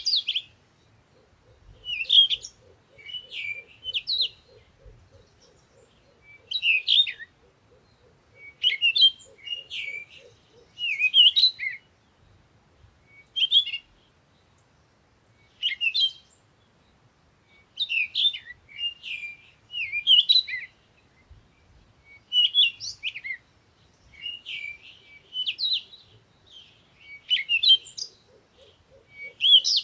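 Birds chirping and singing in short, repeated phrases every second or two, with a faint pulsing buzz underneath for the first third and near the end.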